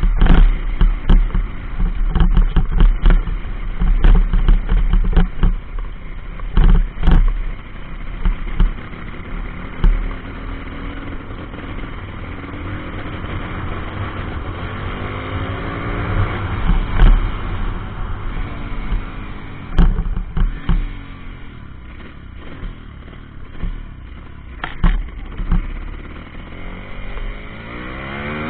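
A 140cc pit bike's single-cylinder four-stroke engine running under way, its pitch rising and falling as the throttle is worked and climbing again near the end. Frequent sharp knocks and clatter come through, thickest in the first third.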